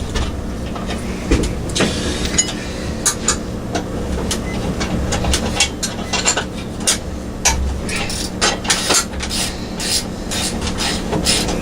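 Hand tools clicking and clinking against the metal parts of a mini bike's front end, a string of short, irregular sharp knocks over a steady low hum.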